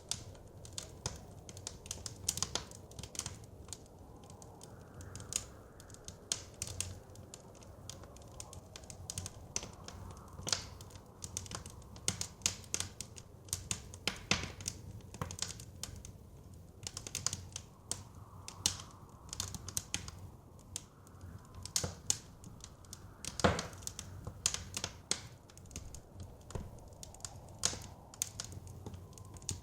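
Wood fire crackling: a dense, irregular run of sharp pops and snaps, the loudest about fourteen and twenty-three seconds in, over a low, steady rush of blizzard wind.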